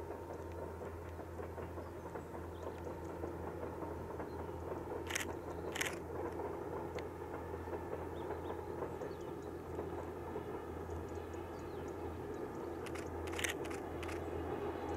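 Distant passenger train running along the line: a steady low rumble, with a few short sharp scraping sounds about five to six seconds in and again near the end.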